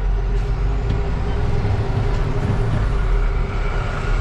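Truck's diesel engine running steadily, heard from inside the cab, while the driver works the manual gearbox.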